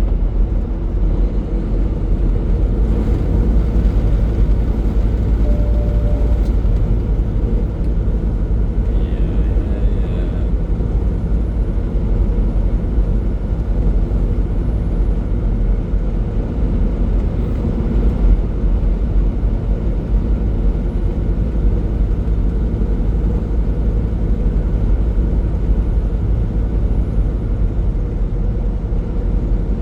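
Semi-truck's diesel engine and road noise heard from inside the cab while cruising on the highway: a steady, unbroken low drone.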